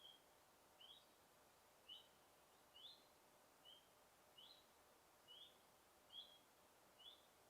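A bird repeating a short, high chirp about once a second, each note a quick upward flick, over a faint steady hiss of forest background.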